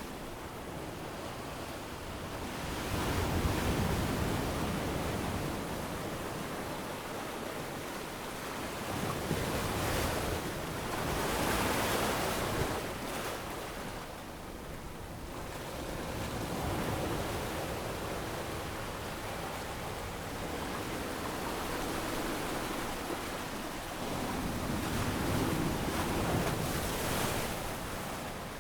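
Ocean waves breaking and washing up on a sandy beach, the surf swelling and ebbing every few seconds.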